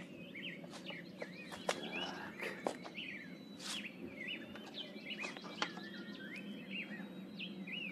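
Small birds calling throughout with short, repeated chirps that rise and fall in pitch, over a steady outdoor background hum, with a few faint scattered clicks.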